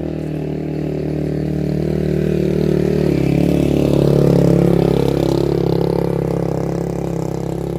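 A small engine running steadily. It grows louder to a peak about halfway, shifting in pitch there, then eases off.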